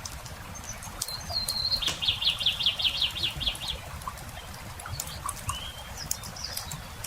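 A small songbird sings: a short whistled note, then a fast trill of quick repeated down-slurred notes lasting nearly two seconds, with a few short chirps later. Underneath, a wood campfire crackles with scattered sharp pops over a low steady rumble.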